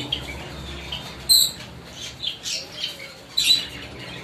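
Small caged pet birds chirping and squawking in short, high-pitched calls, with the loudest a little over a second in and again about three and a half seconds in.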